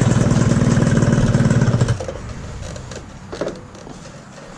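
Honda Dash 125 two-stroke motorcycle engine idling with a rapid, even beat. About two seconds in, the engine sound drops away, leaving a quieter background with a few clicks.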